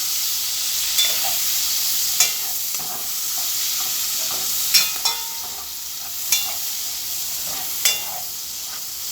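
Chopped onion sizzling in bacon grease while being stirred, with a steady frying hiss. A utensil knocks sharply against the metal pan every second or two, each knock ringing briefly.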